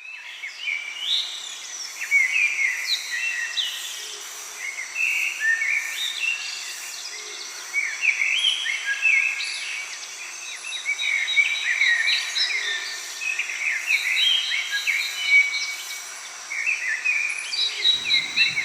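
Several birds singing and chirping in quick overlapping phrases, over a steady high-pitched drone of insects.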